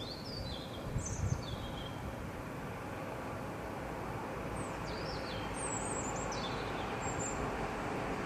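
A songbird singing at night: short, high phrases of quick falling notes, a few in the first two seconds and more from about halfway through, over a steady background hiss.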